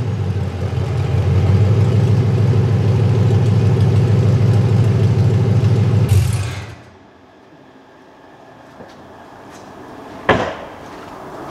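A C5 Corvette's 5.7-litre V8 running steadily on open longtube headers, with no exhaust fitted behind them, then shut off about six seconds in. A single sharp knock follows about four seconds later.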